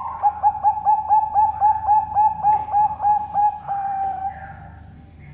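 Zebra dove (Bangkok-type perkutut) cooing its song: a rapid run of short coo notes, about five a second, ending in a longer held note about four seconds in.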